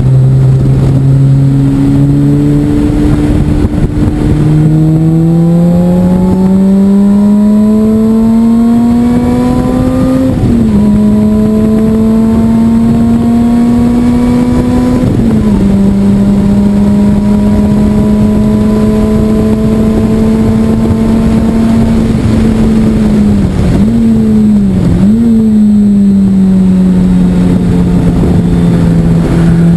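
Lotus Exige's engine heard from inside the cabin under hard acceleration on a race track. Its pitch climbs steadily and drops sharply at two upshifts, about ten and fifteen seconds in, then holds steady at speed. Near the end it dips briefly twice and settles lower as the car slows for a corner.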